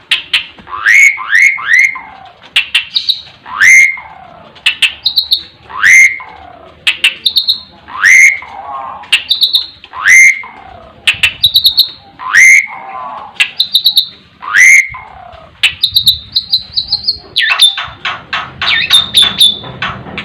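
Asian pied starling (jalak suren) calling loudly in a repeated phrase, about one every second and a bit: a sharp click, a quick rising whistle, then a lower falling warble. Near the end it breaks into a fast run of high chirps.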